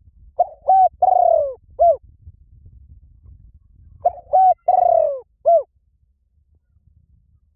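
Bird lure recording of a cooing bird call, played twice: each phrase is two short notes, a longer note falling in pitch, then one more short note.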